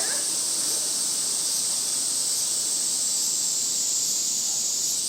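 Steady high-pitched insect drone, an even continuous buzz that keeps the same level throughout.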